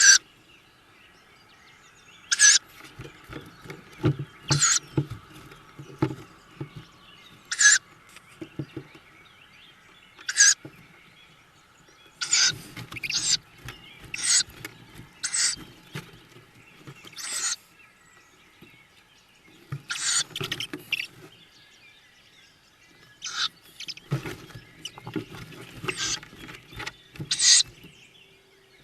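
Tawny owl chicks in a nest box giving short, hissing calls, about sixteen scattered irregularly through, with scuffling and knocking as they move about on the box floor.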